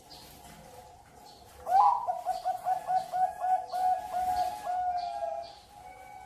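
Zebra dove (perkutut) cooing: a loud run of about a dozen quick, staccato notes starting just under two seconds in and closing with a longer drawn-out note. Fainter coos and small high chirps from other birds sound behind it.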